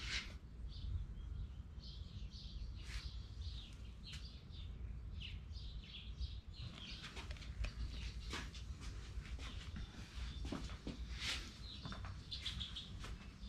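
Birds chirping, short calls repeating throughout, a few of them sharper and louder, over a low steady background hum.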